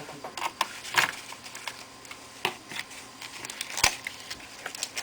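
Scattered small clicks and taps of laptop parts being handled, fitted and screwed in during reassembly, with the loudest click just under four seconds in and another sharp one about a second in.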